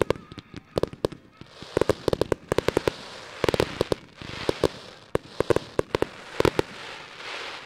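Fireworks display: rapid clusters of sharp shell bursts and reports, with a crackling hiss filling the gaps between them. It cuts off suddenly at the very end.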